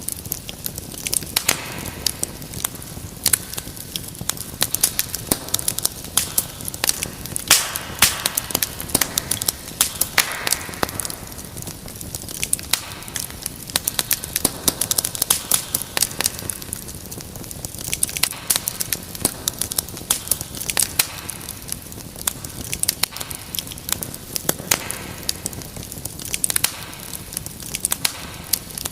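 Wood fire burning in a fireplace, crackling and popping constantly over a steady hiss.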